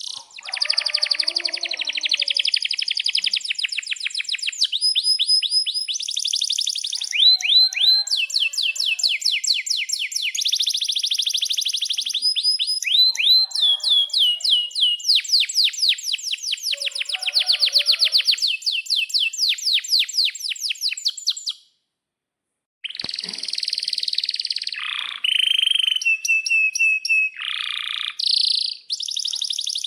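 Domestic canary singing a long, loud song of very fast trills and rolls mixed with sharp chirps and short whistled notes. The song stops for about a second a little over two-thirds of the way through, then starts again.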